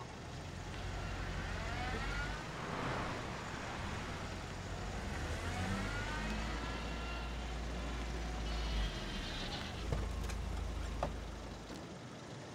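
Car engine running with a low rumble, its pitch rising twice as it revs. The rumble stops about a second before the end, with a couple of sharp clicks just before it.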